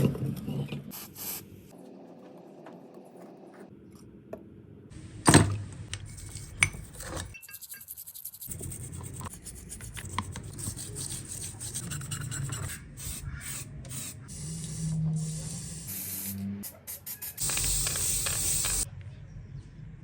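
Hand-restoration work on a metal tool: rubbing, scraping and filing strokes in short edited segments, with a few sharp clicks, then a dense hiss near the end like a spray.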